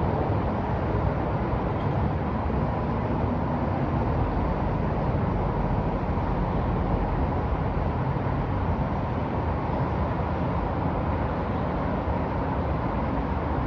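Steady downtown city traffic noise: a continuous low rumble of vehicles with no single standout event.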